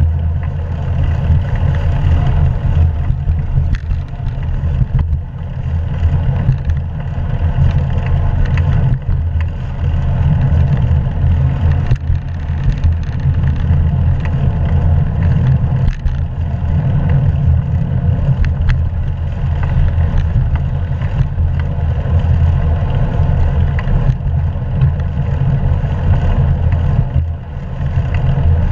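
Wind and road noise on a GoPro action camera's microphone while cycling: a steady, loud low rumble, with faint scattered ticks and rattles.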